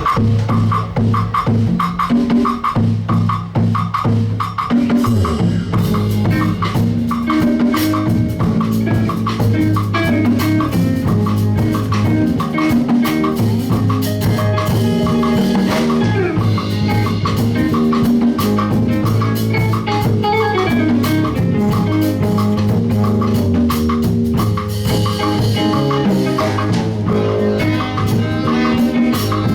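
Live band music: a drum kit and percussion playing a steady beat over a bass line and other pitched instruments.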